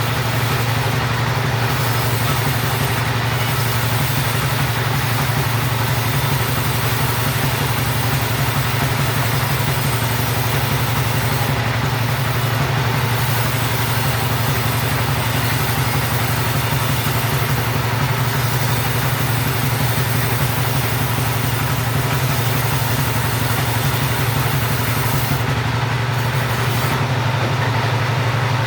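Chainsaw running steadily at a constant, loud pitch with no revving up or down.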